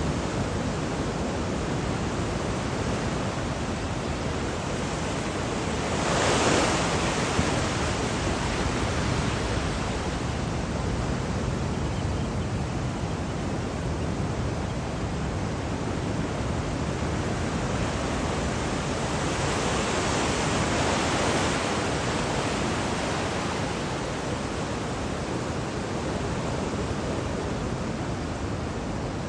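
Ocean surf washing onto the beach in a steady rush, with two louder waves breaking, one about six seconds in and another around twenty seconds.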